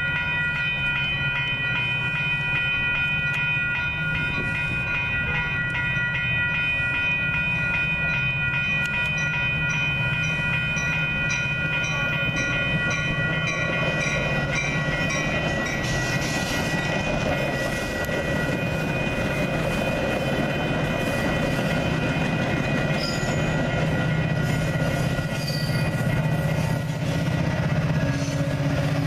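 Grade-crossing warning bell ringing in an even rhythm while a Metra bilevel commuter train rolls through the crossing, its wheels clacking over the rails, louder from about halfway. Near the end the F40PH-3 diesel locomotive pushing at the rear comes past, and its engine hum grows louder.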